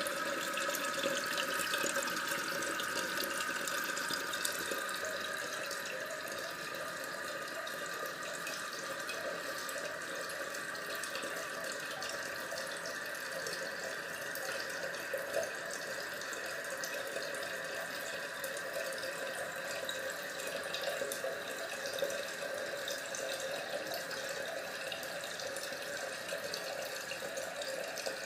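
Toilet tank refilling after a flush: water runs steadily through the fill valve with a hissing, whistling tone.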